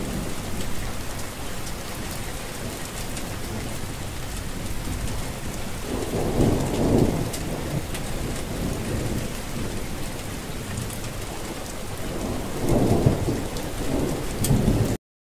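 Steady rain falling, with two low rolls of thunder, one about six seconds in and another near the end. The sound cuts off suddenly just before the end.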